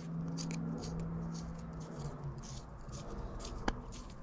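A screwdriver unscrewing a switch from a car's interior trim, with faint scattered clicks and light scratching and one sharper click near the end. A steady low hum runs through the first half and then fades.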